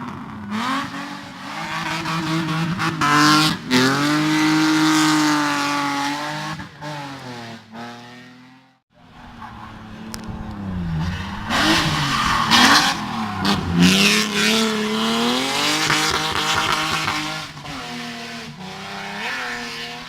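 Race car engines at hard throttle, one car and then another, each revving up and falling back repeatedly through gear changes and corners as it passes. There is a sudden break a little under halfway, and the second car fades away near the end.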